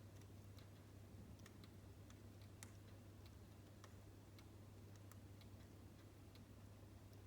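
Faint crackling of a wood fire in a fireplace: small irregular pops and ticks, several a second, over a low steady hum.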